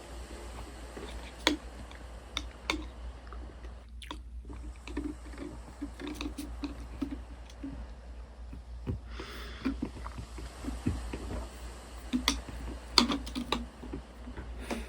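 Close-miked chewing and mouth sounds of a person eating, with scattered small clicks and smacks.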